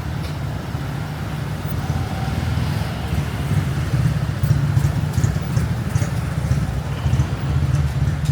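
Street traffic: a steady low rumble of passing cars and motorbikes, growing louder about four seconds in.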